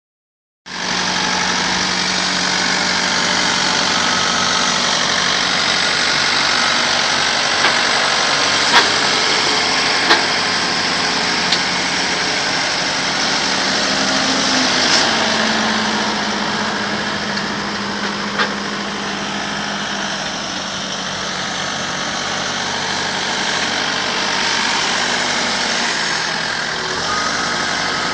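Engine running steadily, with its low hum shifting slightly in pitch about halfway through, and a few sharp knocks or clanks over it.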